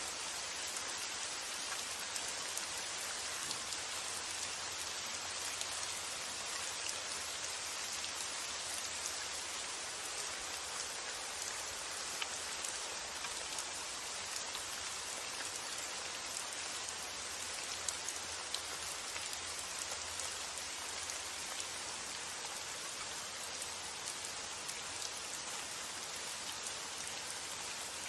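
Steady rain: a dense, even hiss of falling rain with many sharper individual drop ticks scattered through it.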